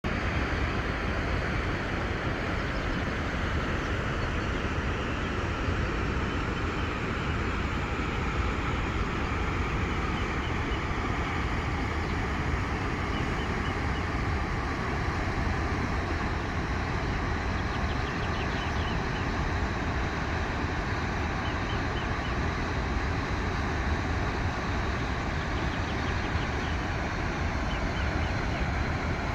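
Steady roar of rushing white water from Huka Falls on the Waikato River.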